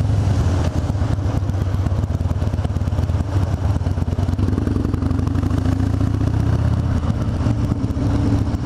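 Harley-Davidson Dyna Super Glide Custom's V-twin running steadily through its aftermarket sport exhaust tips while riding slowly in traffic. It is a deep, rapid pulsing heard from inside the rider's helmet.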